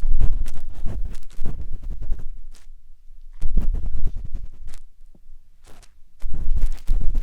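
Matchstick scratching and rubbing inside the silicone ear of a 3Dio binaural microphone, close and scratchy with a deep rumble. The strokes come in three spells with short pauses between them.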